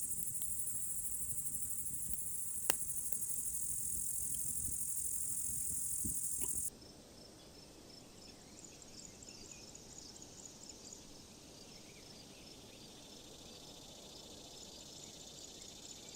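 Crickets chirring steadily in a loud, high, finely pulsing chorus at night, with a single sharp click a few seconds in. The chorus cuts off abruptly partway through, leaving fainter, short high chirps repeating.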